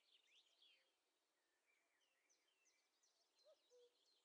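Very faint birdsong: small birds chirping and trilling, with a distant common cuckoo giving its two-note call about three and a half seconds in.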